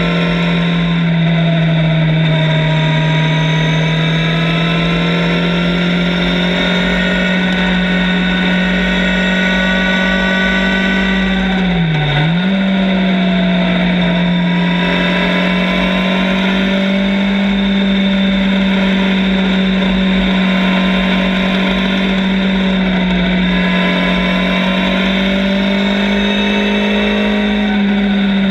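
Motorcycle engine running at a steady cruising speed on the move, its pitch drifting gently, with a brief sharp dip in revs and quick recovery about twelve seconds in.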